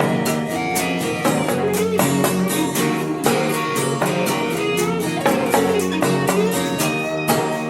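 Grunge rock band playing an instrumental passage led by guitars, over a steady beat.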